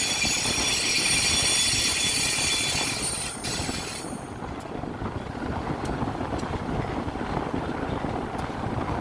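Steel train wheels squealing against the rail as the rescue train rolls past, a shrill multi-tone squeal that cuts off about four seconds in, leaving the rolling rumble of the train and a few faint clicks.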